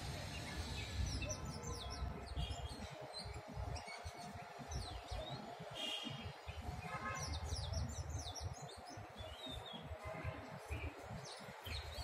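Small birds chirping in quick clusters of short, falling high notes, over a steady low rumble.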